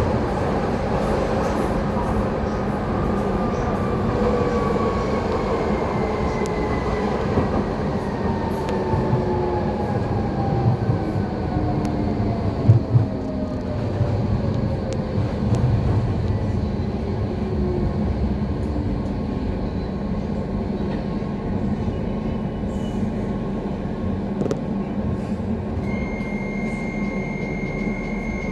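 Docklands Light Railway train running, with a steady rumble of wheels on rail. The electric traction motors whine, falling steadily in pitch over the first half as the train slows. About three seconds before the end a steady high beep sets in.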